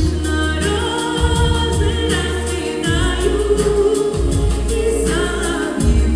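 A female voice singing a pop song over a band, with a steady beat and heavy bass.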